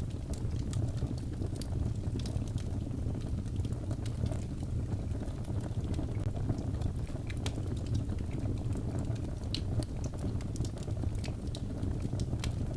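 Fireplace fire burning: a steady low rumble of flames with scattered small, sharp crackles and pops.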